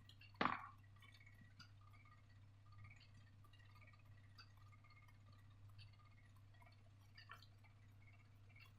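Near silence with faint scattered soft clicks and ticks, one sharper click about half a second in, over a low steady hum.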